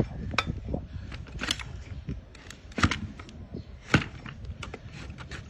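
A donkey's hoof being trimmed with hand tools: a series of sharp, irregular cracking snips as the hard hoof horn is cut, the loudest about three and four seconds in, over a low rumble.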